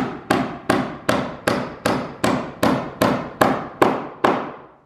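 Hammer nailing wooden blocking between attic floor joists: about a dozen sharp, evenly spaced blows, roughly two and a half a second, each ringing briefly, stopping just before the end.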